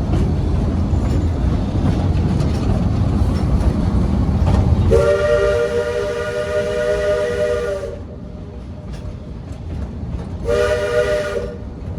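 Steam locomotive's chime whistle sounding one long blast about five seconds in and a short one near the end, over the rumble of the moving train. The whistle is the warning signal that the train is about to cross the high bridge.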